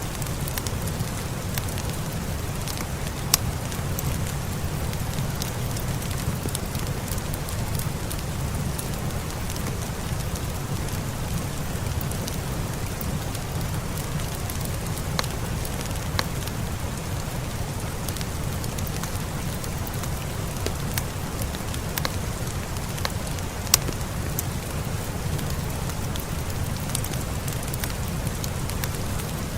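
Steady rain with a deep low rumble, mixed with a fireplace, and scattered sharp clicks and pops through it.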